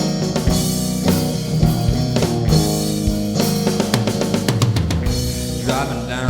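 Rock band playing an instrumental passage: electric guitar and bass over a drum kit with regular bass drum and snare hits.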